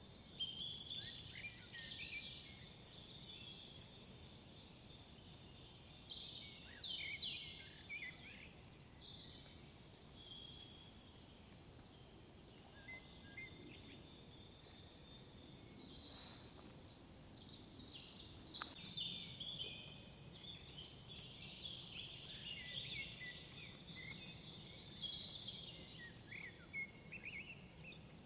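Several songbirds singing over one another in short warbled phrases and chirps, with a very high, thin trill heard three times. A faint steady low rumble runs underneath.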